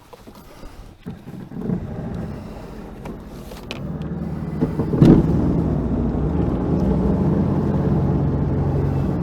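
Sea-Doo Fish Pro jet ski engine running, growing louder over the first few seconds and then settling into a steady drone, with one sharp knock about five seconds in.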